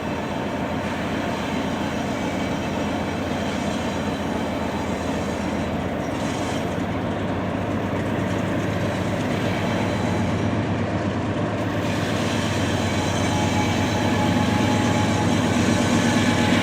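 Norfolk Southern freight train rolling past on the rails: a steady rumble of wheels and cars, growing a little louder over the last few seconds.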